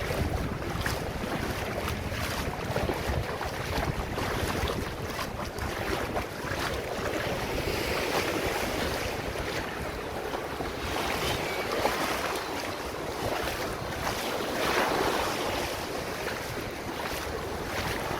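Wind buffeting the microphone over the steady rush of sea water around a moving boat.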